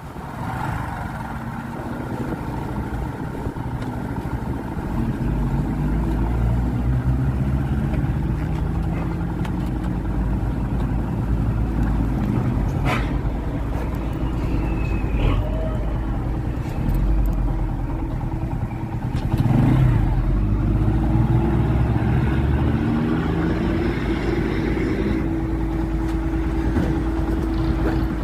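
Motorcycle engine running under way, its pitch rising and falling with throttle and gear changes over a steady low rumble.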